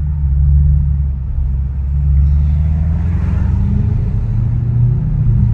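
Straight-piped Audi S7 exhaust with a deep, loud, steady rumble under way. The pitch rises a little about halfway through as the car pulls ahead.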